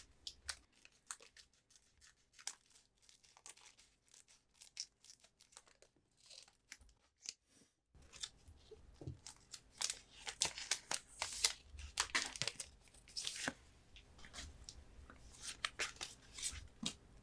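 Pokémon booster pack foil wrappers being torn open and crinkled, with light taps and card handling. It is sparse ticking and rustling at first, breaks off briefly a little past halfway, then turns into dense crinkling and tearing.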